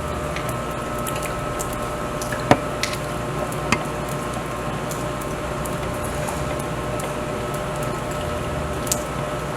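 Steady machine hum carrying a couple of constant tones, with a few sharp clicks over it, the loudest about two and a half seconds in.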